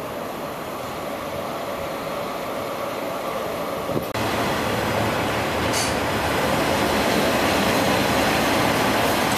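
Diesel multiple-unit trains running through a station, a steady rumble and rush that builds slowly. About four seconds in it turns suddenly louder and stays steady, with a Class 142 Pacer diesel unit close by.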